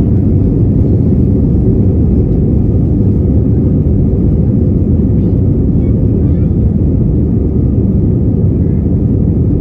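Steady low rumble of an Airbus A320's engines and airframe, heard from inside the passenger cabin.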